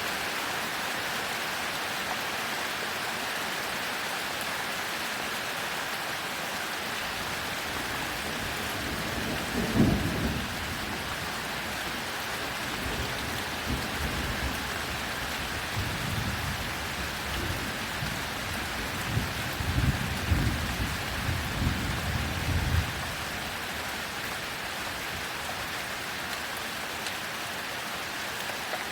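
Heavy rain falling steadily, with thunder rumbling over it: one sharp peak about ten seconds in, then a longer, rolling stretch of rumbles in the second half.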